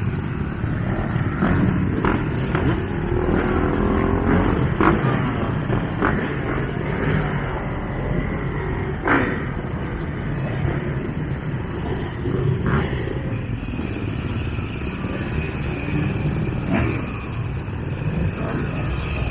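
Motocross bikes racing, several engines revving up and down over one another, with a few short sharp knocks, the loudest about nine seconds in.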